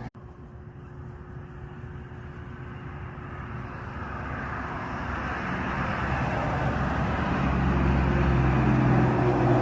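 Motor vehicle engine and road noise growing steadily louder, with a low engine hum coming up strongly in the second half, as a vehicle approaches.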